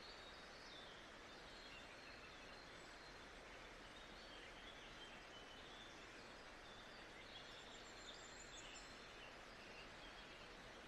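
Faint nature-sound background: a steady hiss with many small birds chirping throughout in short, high calls.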